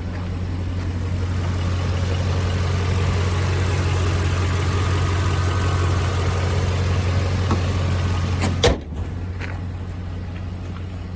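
Ford F-350's 5.4-litre gas V8 running steadily, growing a little louder over the first few seconds. About nine seconds in there is a single sharp thump, after which the engine sounds quieter and duller.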